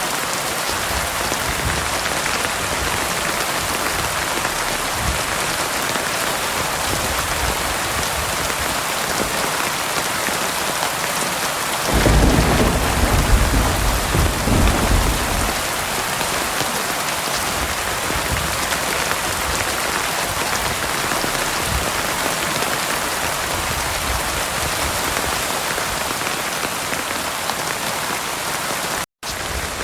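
Heavy rain falling steadily on a surface, with a roll of thunder about twelve seconds in that rumbles for roughly three seconds. The sound cuts out for a split second near the end.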